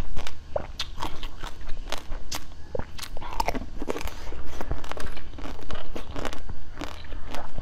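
Close-miked biting and crunchy chewing of a pink candy ball pulled off a lollipop stick, with many quick, irregular crisp cracks.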